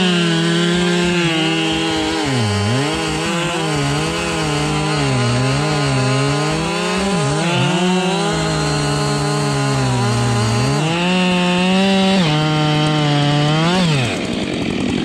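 Husqvarna 572 two-stroke chainsaw at high revs, limbing an ash trunk: the engine pitch dips each time the chain bites into a branch and climbs back as it cuts through, again and again. Near the end the revs drop sharply as the throttle is let off.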